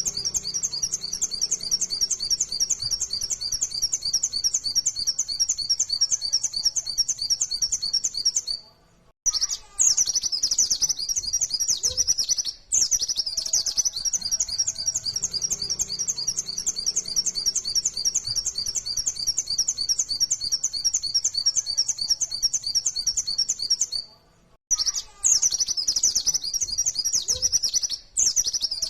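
White-eye (pleci, Zosterops) singing a fast, unbroken run of high, rapid-fire chattering notes, breaking off briefly twice.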